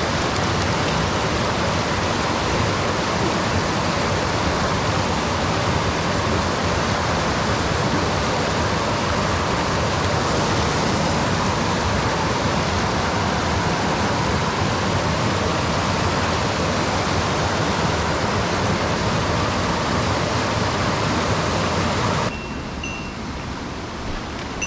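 Mountain stream water rushing steadily. About 22 seconds in, the sound cuts to something quieter and duller with a faint high tone.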